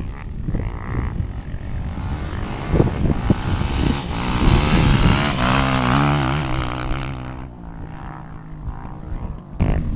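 Off-road racing engine revving with a wavering pitch. It grows louder to a peak about five seconds in, then fades as it passes.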